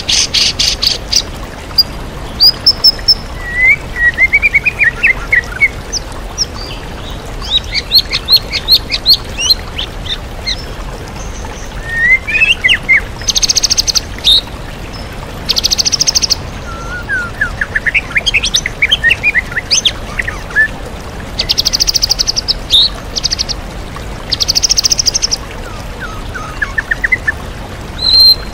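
White-rumped shama singing a varied song of short whistled phrases and rapid buzzy rattles, its mimicry of other songbirds, over the steady rush of a waterfall.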